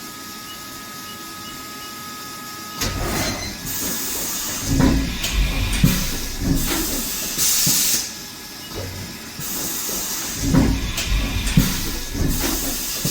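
Haas VF-6SS tool changer cycling through a tool change: after about three seconds of a quiet steady machine hum, a series of clunks and knocks with bursts of air hiss, coming in two groups.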